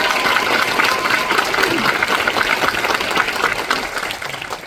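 Theatre audience applauding at a musical's curtain call, dense clapping that fades toward the end.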